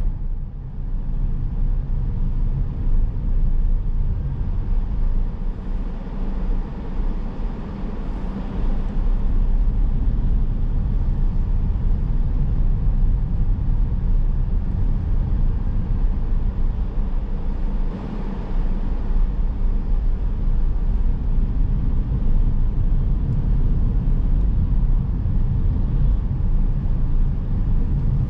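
Car driving on town streets: a steady low rumble of road, tyre and engine noise, dipping briefly about a second in.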